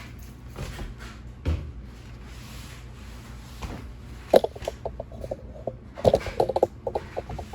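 A sharp knock followed by a quick run of rattling clicks, then another cluster of rattling clicks about two seconds later, as hard household objects are handled. A low steady hum runs underneath.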